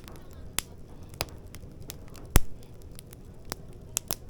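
Firewood fire crackling in a fire pit: irregular sharp pops and snaps, one louder pop about two seconds in, over a low steady rush of the flames.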